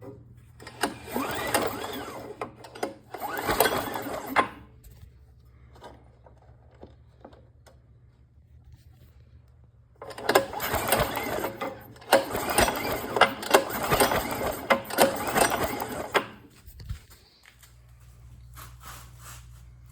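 Snowblower engine turned over by its recoil pull starter with the spark plug removed, cranking fast without firing, in two spells of pulling, about a second in and again about ten seconds in. This is a spark check: the plug, grounded on the engine cover, shows good blue spark.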